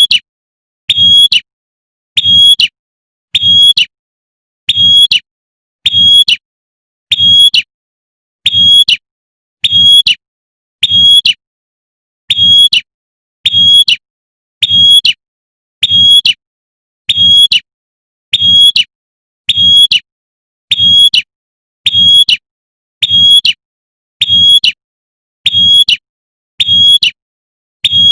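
Female prinia (prenjak) giving its sharp 'tembakan' call, a short high note repeated at an even pace about once every 1.2 seconds. It is the female's call that draws in males.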